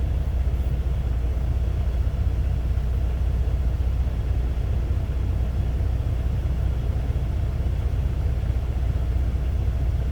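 Steady low rumble of an idling semi-truck diesel engine.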